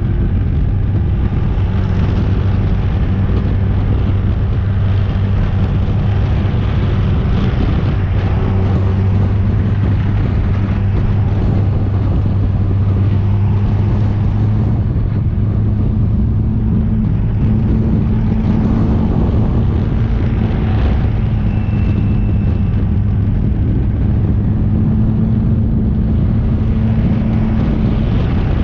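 In-car sound of a Triumph TR4 race car's four-cylinder engine running steadily at a low, even pace-lap speed, with wind rush around the open cockpit.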